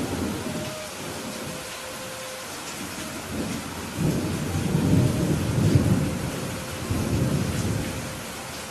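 Steady rain with thunder: a sudden crack right at the start, then a long low rumble that swells from about four seconds in, peaks around the middle and dies away near the end.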